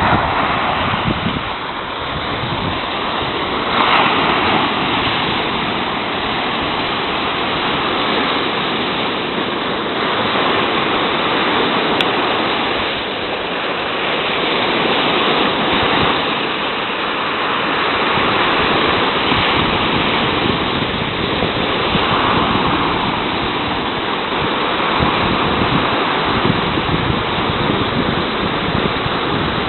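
Sea surf: waves breaking and washing on the shore in a continuous rush that swells and eases every few seconds.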